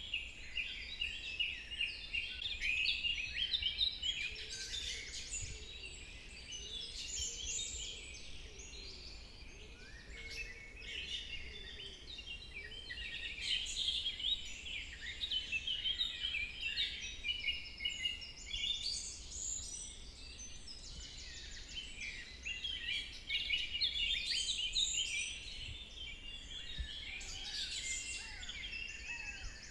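Forest ambience of many birds chirping and singing at once, a dense, continuous chorus of short, overlapping high calls.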